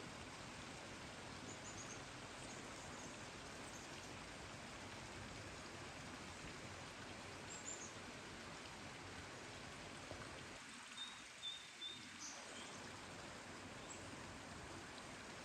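Steady rain, with small birds giving short high chirps now and then and a quick run of chirps about two-thirds of the way in.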